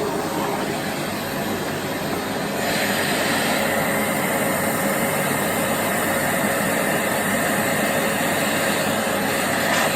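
Philips PowerPro Compact bagless cyclone vacuum cleaner (650 W) running steadily. About three seconds in, its sound shifts and a higher hiss comes in and stays.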